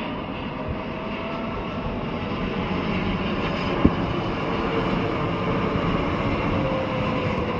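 Jet airliner's engines running loud and steady as it passes on its landing approach, with faint whining tones that slowly fall in pitch. A single sharp click about four seconds in.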